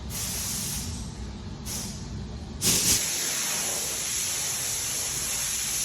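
Hissing spray of air or gas: two short bursts, then a steady hiss that starts about two and a half seconds in and keeps going.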